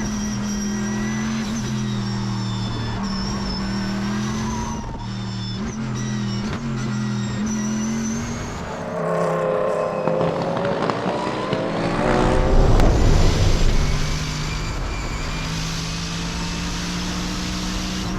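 Twin-turbo Chevrolet Corvette time-attack car running hard on track, its engine note rising steeply in pitch as it accelerates a little past halfway, the loudest part of the run.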